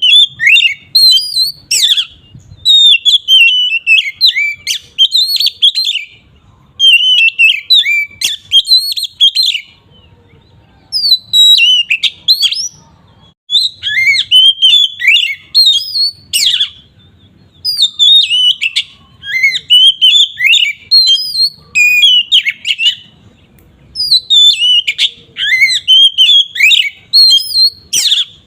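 Oriental magpie-robin (kacer) singing loud 'ngeplong' song: rich, varied whistled phrases delivered in bursts of a few seconds, broken by short pauses.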